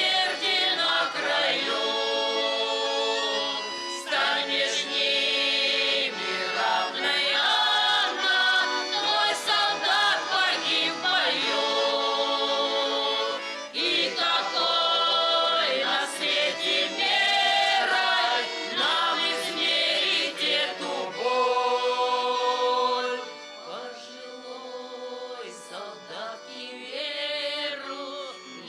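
Music: a song sung by a choir of voices with instrumental accompaniment, dropping to a quieter passage about 23 seconds in.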